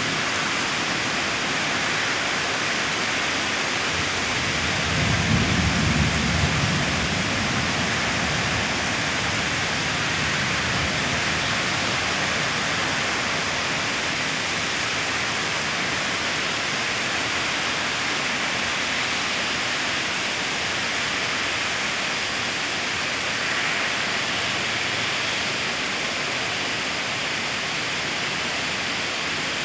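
Heavy rain falling steadily in a continuous hiss, with a low rumble of thunder about five seconds in that dies away over the following seconds.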